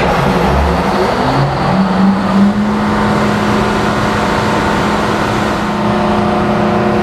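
Detroit Diesel 16V92T two-stroke V16 diesel of a Kohler generator set running. Its engine speed rises about two seconds in and then holds steady.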